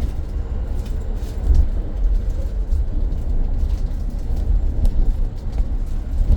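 Inside a moving BYD BD11 battery-electric double-decker bus: a steady low rumble of road and running noise, with light scattered rattles and clicks from the bodywork and fittings.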